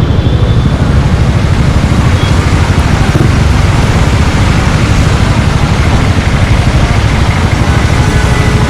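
Suzuki Gixxer 155's single-cylinder engine running steadily through an aftermarket exhaust, a loud, fast-pulsing low rumble.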